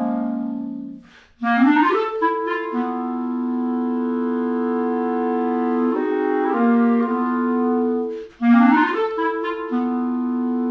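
Clarinet music: quick rising runs about a second and a half in and again about eight and a half seconds in. Each run lands on long held notes sounding together, with the notes shifting every second or so.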